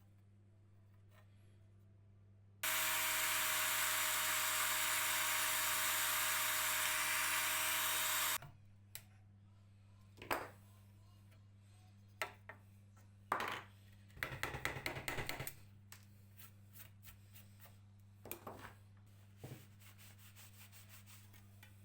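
A power tool runs steadily for about six seconds and then stops suddenly. Scattered taps and clicks follow, with a short rattle in the middle of them.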